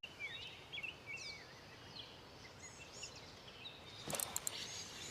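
Faint songbird singing, a run of quick whistled notes that rise and fall, over light outdoor background noise. A few sharp clicks come close together about four seconds in.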